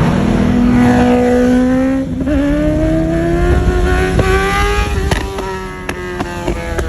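Engine revving hard under acceleration, its pitch climbing, with a brief break and shift about two seconds in before it climbs again and levels off; a few sharp clicks near the end.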